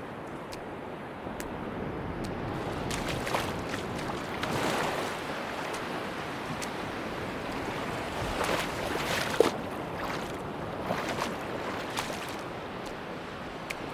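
Sea surf washing onto a beach: a steady rush of water that swells twice, about four seconds in and again about nine seconds in, with faint scattered ticks through it.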